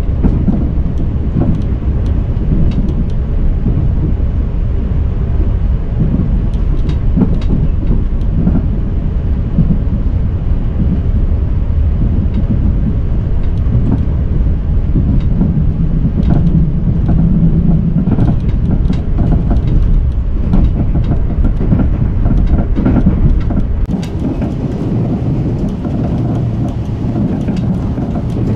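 Limited express train running, heard from inside the passenger car: a loud, steady, low rumble with scattered clicks and rattles. About 24 s in, the deepest part of the rumble eases off.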